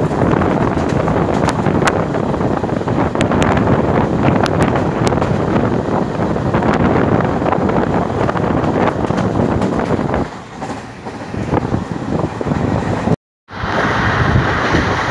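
Passenger train running at speed, heard from on board: wind rushing over the microphone, with scattered sharp clicks. The sound dips about ten seconds in and cuts off suddenly near the end, then resumes as a different steady running sound.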